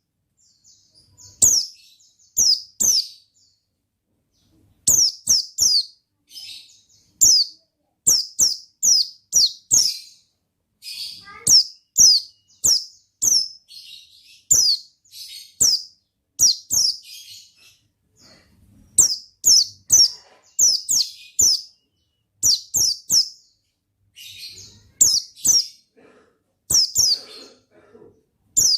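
White-eye (pleci) singing: quick, high-pitched chirps that fall in pitch, delivered in rapid runs of two to four notes, repeated over and over with short pauses.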